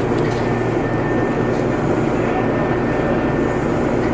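Steady running noise of a Meitetsu limited express train heard from inside the car: a constant rumble of wheels on rail, with a faint steady whine.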